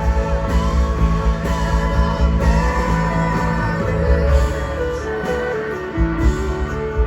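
Rock band playing live: guitars over bass and drums. A run of notes falls in pitch about five seconds in, and the low end thins briefly before the full band comes back in with a hit near the end.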